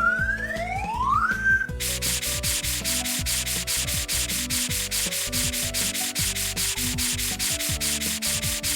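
Cartoon scrubbing sound effect: fast, evenly repeated hissing rub strokes, about five a second, over light background music. It follows a rising whistle glide in the opening second or so.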